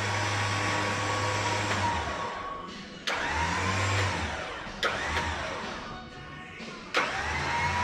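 Electric winch motor pulling under load in short bursts. It stops and restarts with a sharp click about three seconds in, again near five seconds and near seven seconds. Each start brings a whine that rises and then settles over a low hum.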